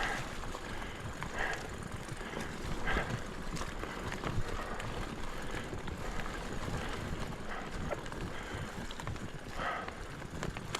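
Mountain bike riding over a dirt singletrack trail: a steady rumble of knobby tyres on dirt, with a few short clatters from the bike over bumps.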